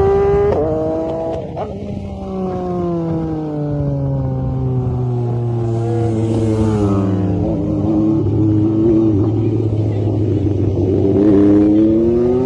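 Motorcycle engine running under load, its pitch jumping up briefly near the start, then falling slowly for several seconds as it eases off, and climbing again near the end as it revs back up.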